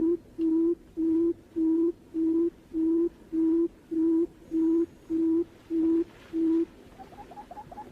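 Barred buttonquail call: a steady series of low, even hooting notes, a little under two a second. Near the end it stops and gives way to a quicker run of short, higher notes that each fall in pitch.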